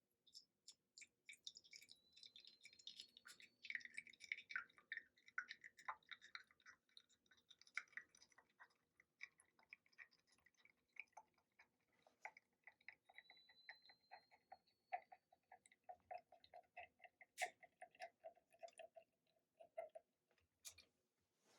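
A quiet, rapid series of small clicks, taps and scrapes, some falling into a regular ticking rhythm, with two faint rising squeaks.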